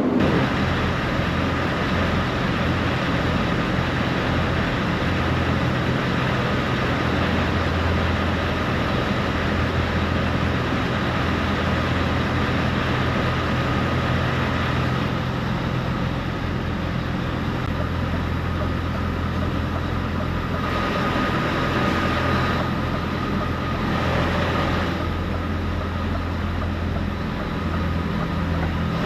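Steady low engine drone with a constant deep hum and an even rumble, unchanging throughout.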